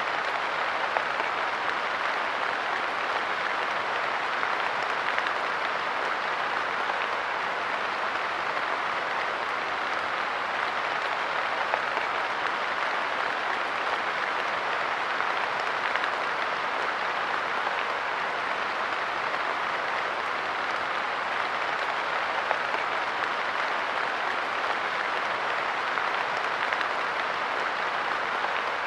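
Light rain falling steadily on a park bench and the ground around it: an even patter with the odd louder drop.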